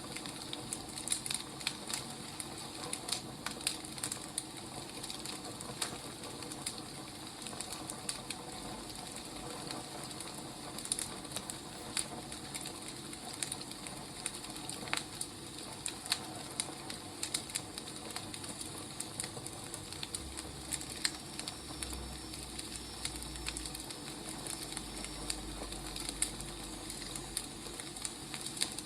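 Wood fire crackling: irregular snaps and pops over a soft steady hiss.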